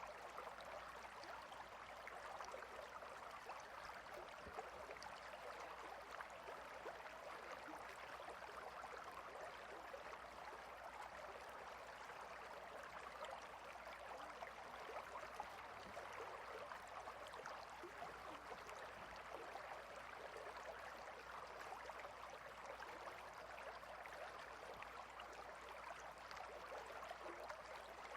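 River flowing over rocks: a faint, steady rush of water.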